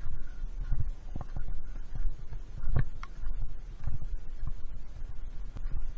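Footsteps and rustling through wet leaves and branches on a trail, a run of irregular soft thumps and scratchy brushes, with bumps of handling on the microphone.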